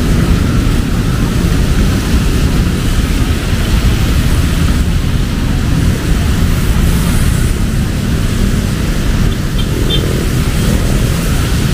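Heavy rain falling steadily, with a deep, constant rumble underneath.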